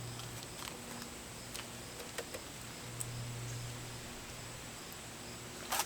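Faint scattered clicks of hands working on parts, over a low steady hum, with a quick cluster of sharper clicks near the end. The motorcycle is not running and has no electrical power.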